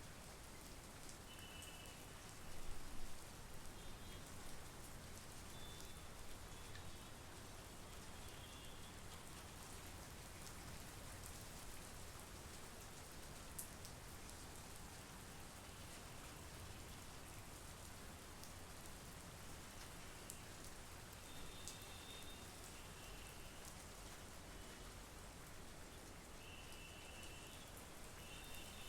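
Steady monsoon rain falling, with scattered drops ticking close by and short, high-pitched calls repeating now and then above the rain. There is a brief louder patch of drops about three seconds in.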